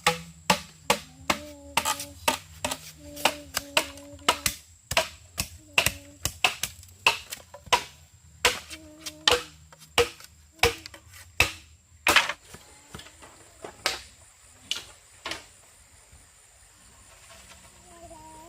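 Repeated sharp knocks, roughly two a second at an uneven pace, stopping about fifteen seconds in. A steady low hum-like tone runs under the first half.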